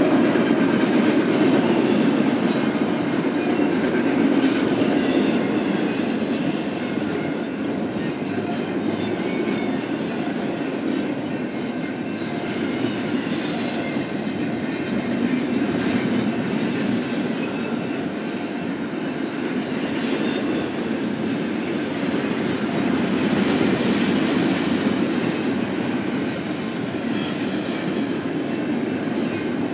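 BNSF double-stack intermodal freight train rolling steadily past, its cars' steel wheels running on the rails in a continuous rumble.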